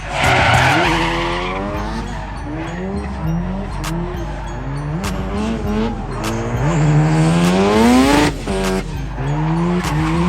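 Drift car's engine revving up and down in quick repeated pulls, with one long rising rev that cuts off sharply about eight seconds in, over the hiss and squeal of sliding tyres. Music plays faintly underneath.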